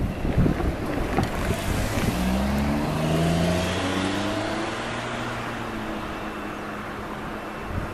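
Tail end of a freight train of container wagons passing: the last wheel clatter ends in the first moment, then a rushing rumble slowly fades as the train moves away. A humming tone that wavers in pitch rises over the rumble for a few seconds in the middle.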